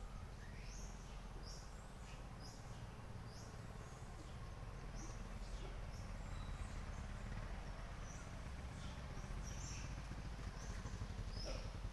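Birds chirping in short, high, falling notes every second or so, over a steady low rumble of outdoor background noise.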